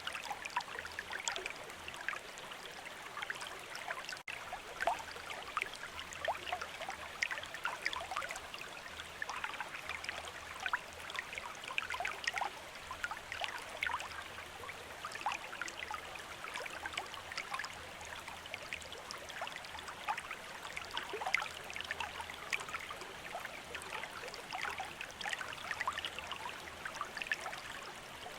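Stream of running water, a steady babble of many small splashes and gurgles, with a momentary dropout about four seconds in.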